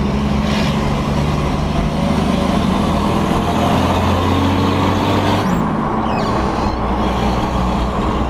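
Turbo-diesel engine of a 60-series Toyota Land Cruiser pulling uphill under load, heard from inside the cab. Its steady low note climbs gradually, then falls away suddenly about five and a half seconds in.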